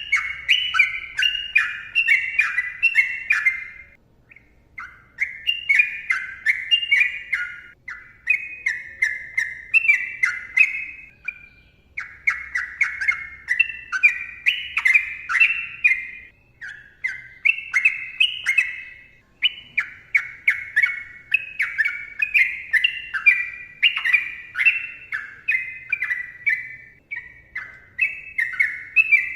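Sooty-headed bulbul singing a long song of quick rising and falling notes in phrases a few seconds long, with brief pauses about 4, 12 and 16 seconds in.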